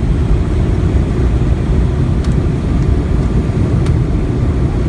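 Steady low rumble of a Boeing 757-200 heard from inside the cabin during landing, engine and airframe noise, with a few faint clicks about two to four seconds in.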